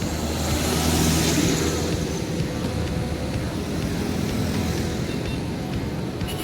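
Heavy truck driving past on a road: a steady low diesel engine note with tyre and road noise, loudest about a second in.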